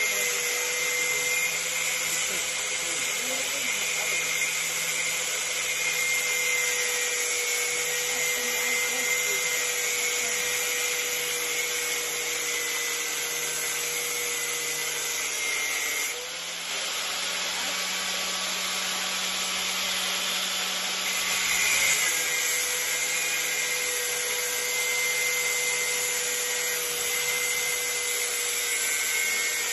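An electric power tool's motor running continuously with a steady high whine over a hissing rush. About halfway through, the note shifts for roughly six seconds, then settles back to its first pitch.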